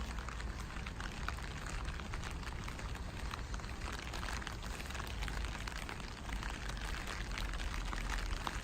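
Steady rain falling, with many small drops ticking and a steady low rumble underneath.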